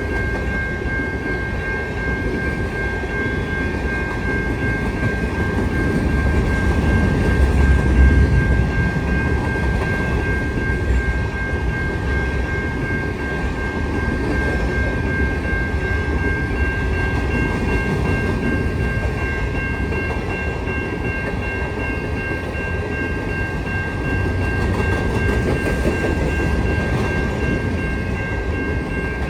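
Empty grain hopper cars of a long freight train rolling past. A steady heavy rumble with wheel clatter swells about eight seconds in, and steady high whining tones hold over it.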